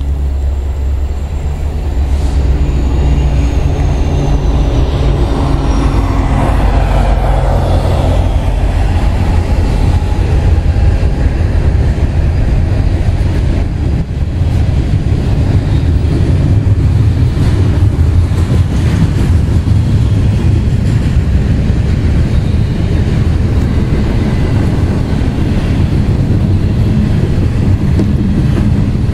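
Norfolk Southern intermodal freight train passing close by. For the first several seconds the diesel locomotives' engines drone steadily, with a high whine falling in pitch. Then comes a steady rumble and clatter of double-stack container cars rolling over the rails.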